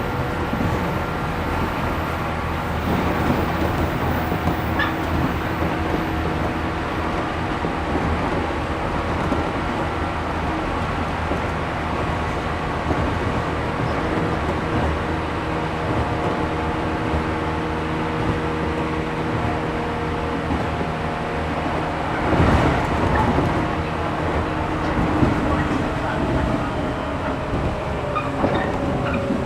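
Interior running sound of a JR 113 series 1500 resistor-controlled electric train: wheel and track noise under a steady whine from the traction motors and gears at constant speed. About three-quarters through comes a louder rush of noise, and near the end the whine starts falling in pitch as the train slows.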